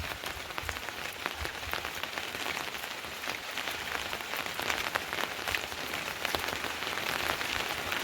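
Rain falling steadily: a dense even hiss with many sharp individual drop ticks.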